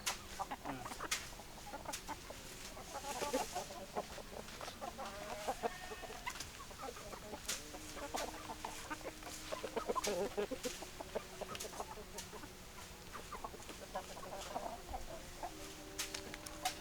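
Chickens clucking, with several hens calling over one another in short, irregular clucks and a few longer drawn-out notes, mixed with scattered sharp clicks.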